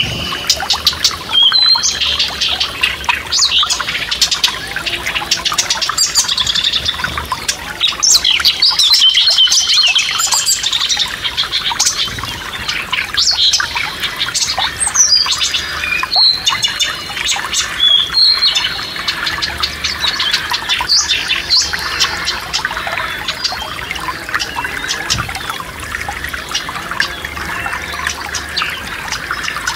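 Several songbirds chirping and whistling over the steady rushing of a forest stream. The birdsong is busiest in the first two-thirds, and the stream's even rush comes forward near the end.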